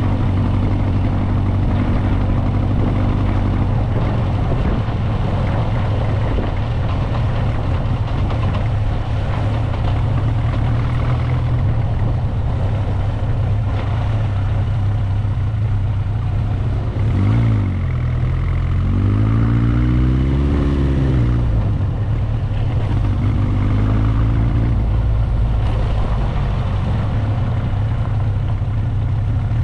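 Motorcycle engine running steadily while riding. A little past halfway the engine note rises and falls several times, then briefly wavers again shortly after.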